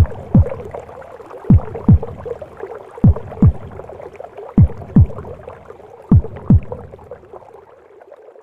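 A mother's heartbeat as heard in the womb: low lub-dub double thumps, one pair about every second and a half, over a steady whooshing hiss of womb sound. The beats stop after about six and a half seconds and the hiss fades near the end.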